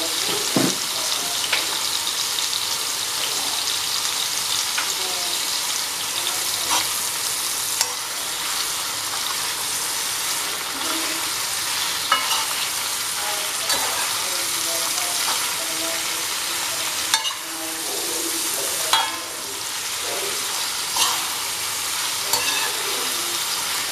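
Sliced milky mushrooms and onion sizzling in mustard oil in a kadai, a steady frying hiss. Throughout, a spatula stirs them, scraping and clicking against the pan every second or two.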